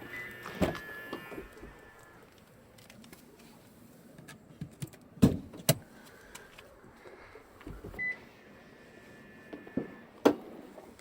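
Toyota Harrier's door being opened and shut: latch clicks and door thuds, the loudest thud about five seconds in and another near the end, with a short high ringing tone at the start and again about eight seconds in.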